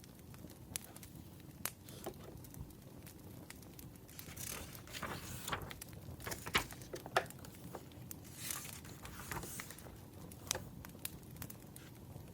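Wood fire crackling, with irregular sharp pops and a low bed of noise. There are two short swells of hiss, one about four seconds in and one near eight and a half seconds.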